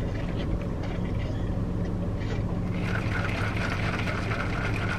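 Car engine idling, heard from inside the cabin as a steady low hum; a higher steady whir joins about three seconds in.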